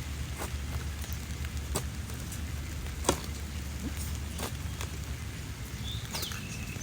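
Irregular sharp taps and clicks over a steady low rumble, the loudest about three seconds in, with a short falling bird chirp near the end.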